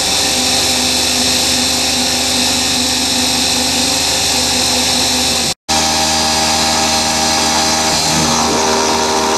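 CNC mini mill spindle running at full speed with the end mill cutting, a steady mechanical whine with several tones over hiss. It drops out for an instant about halfway through, then carries on.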